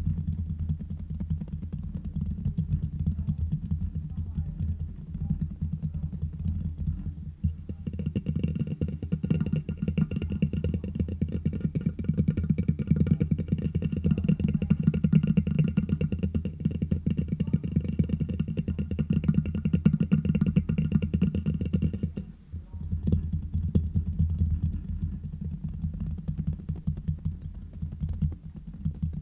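Fingers tapping and scratching fast directly on a microphone, a dense run of quick, close-up taps. From about a quarter of the way in to about three quarters through, the taps grow brighter and a faint steady ringing tone sounds under them.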